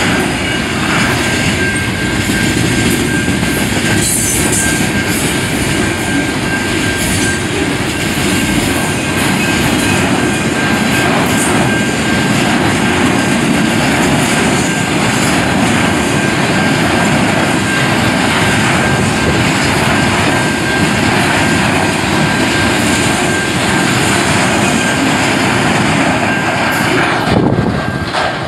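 Freight train cars rolling across a road grade crossing: a steady, loud rumble and rattle of wheels on rail with a thin steady high tone over it. The train noise drops off near the end as the last car clears.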